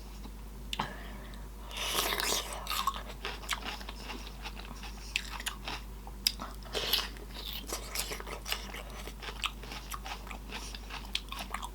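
Close-miked eating: a sausage bitten into with a snap, then wet chewing and lip smacking, with many short sharp clicks and squelches.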